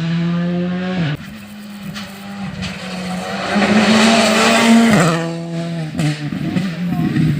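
Rally car engine at high revs, its pitch stepping up and down with gear changes, with a hiss of tyre noise swelling around the middle as the car passes, loudest about four to five seconds in.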